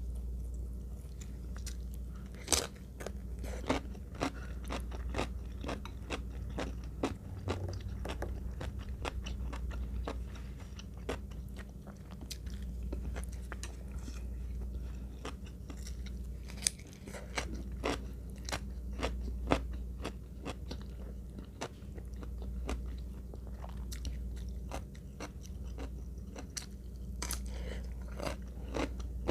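A person chewing and crunching food, with many short crisp clicks of biting and mastication throughout, over a steady low hum.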